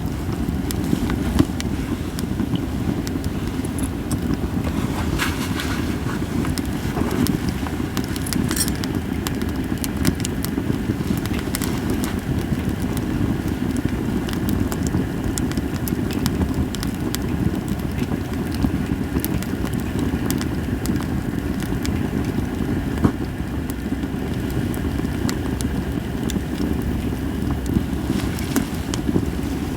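Japanese cedar firewood burning in an open campfire, crackling with many irregular sharp pops over a steady low rumble.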